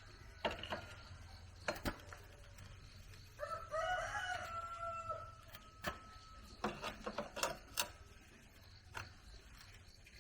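A rooster crowing once, a single call of about two seconds starting a few seconds in, amid scattered sharp clicks and knocks.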